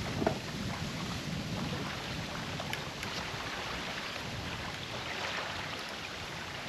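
Steady wash of wind and small waves on a lake shore, with a single light click about a quarter second in.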